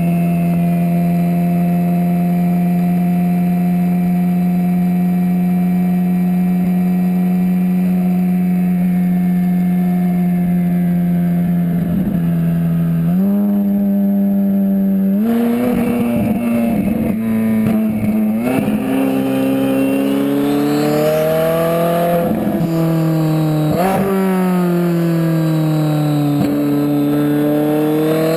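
Twin-turbocharged Ferrari 458 Spider's V8 running at a steady engine speed for about thirteen seconds, then stepping up and repeatedly climbing and dropping in pitch as the car is driven hard.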